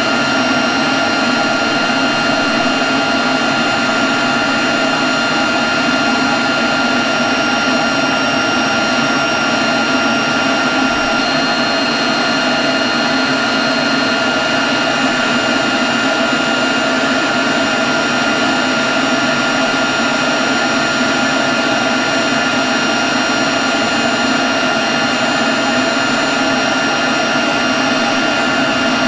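Leaf blower running steadily at one speed: a constant rush of air with a steady high whine that holds its pitch.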